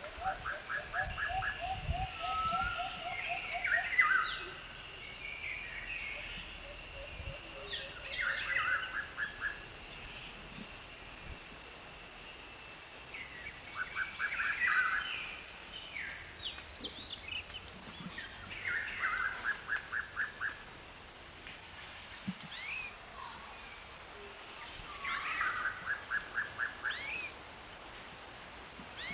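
Songbirds singing in trees. One bird repeats the same short phrase, a rapid run of notes with quick falling whistles, about every five to six seconds. A lower fast trill sounds in the first two seconds.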